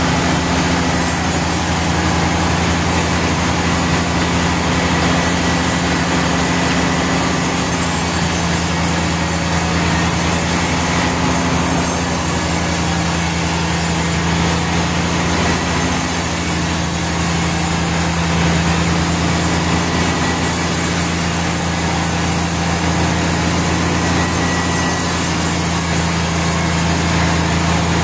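Sawmill machinery running steadily: a continuous low engine hum under a wide, even noise, with no breaks.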